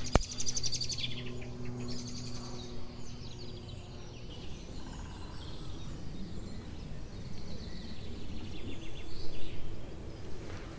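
Wild birds chirping and calling on and off over steady outdoor background noise, with a brief rapid rattle at the very start.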